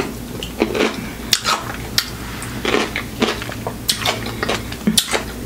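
Chewing a bite of whole dill pickle topped with whipped cream: irregular crunches and wet mouth clicks, a couple a second.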